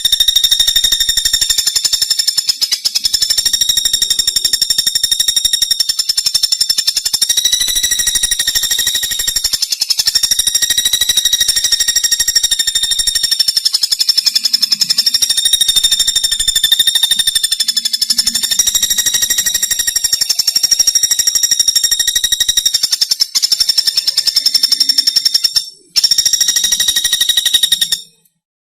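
Pelatuk bawang woodpecker calling: a long, high, very fast rattling trill, broken briefly a couple of times and cutting off shortly before the end.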